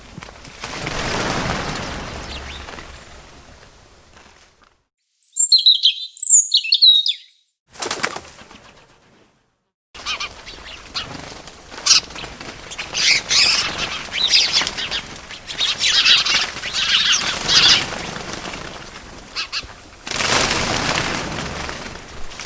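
Birds: wings flapping in noisy flurries, with a few short, sharp, high chirps about five to seven seconds in, which are the loudest sounds.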